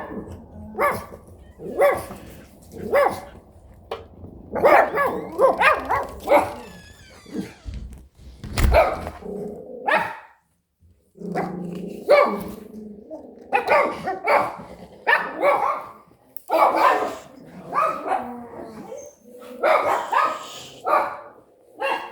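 Dogs barking over and over in short barks, roughly one every second or two, with a brief lull about halfway through.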